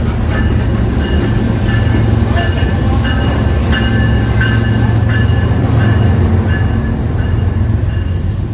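A train passing close by on the track, a steady heavy rumble with short high wheel squeals coming and going.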